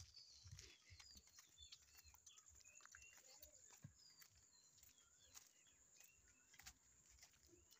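Faint birdsong: many short chirps and calls from several small birds, with a few faint clicks.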